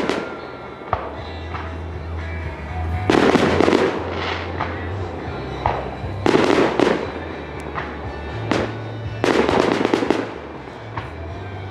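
Fireworks bursting: three loud clusters of rapid bangs, each lasting about a second and spaced about three seconds apart, with a few smaller pops between them. A low steady hum of music runs underneath.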